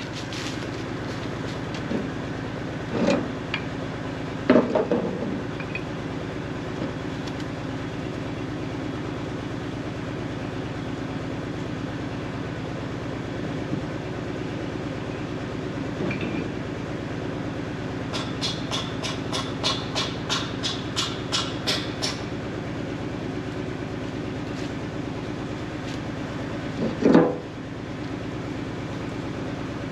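An engine running with a steady hum. Short squeals come a few times, the loudest near the end, and a run of quick metallic clicks, about three a second, comes past the middle.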